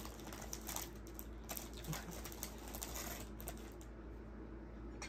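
A person chewing food close to the microphone: a quick run of small clicks and crackles that thins out about four seconds in.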